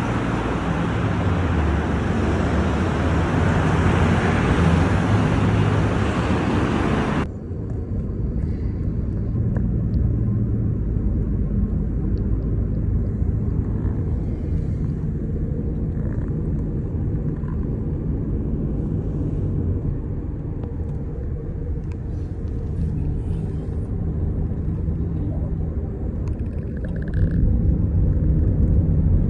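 Steady low rumble of a vehicle in motion. For the first seven seconds a loud rushing hiss lies over it, then stops abruptly, leaving only the rumble.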